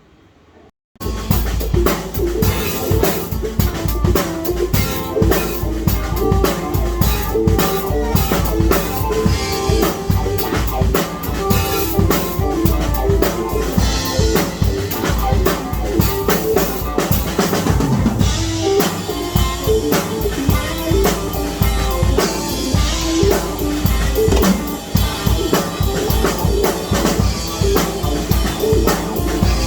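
Music led by a full drum kit, with kick, snare and rimshot hits over pitched instruments. It starts suddenly about a second in, after a moment of near silence.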